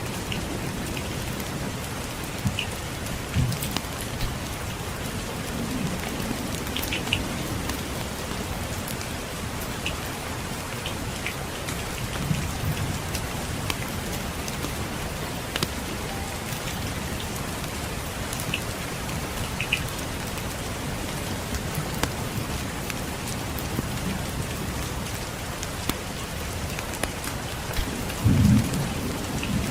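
Steady rain with scattered short crackles of a wood fire, and low rumbles of distant thunder now and then, the strongest near the end.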